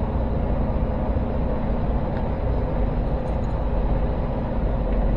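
Steady engine hum and running noise inside a semi-truck's cab.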